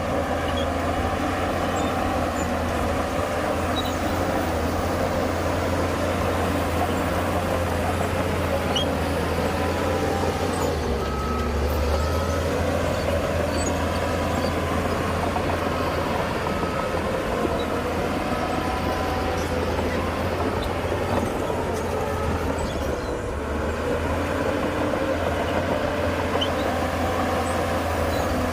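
Heavy diesel earthmoving machinery, a bulldozer or dump truck, running steadily under load with a deep engine drone. Through the middle there is a series of short high beeps from a reversing alarm.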